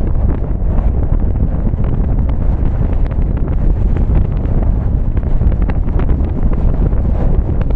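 Car driving in the rain: a steady low rumble of road and wind noise, with faint scattered ticks.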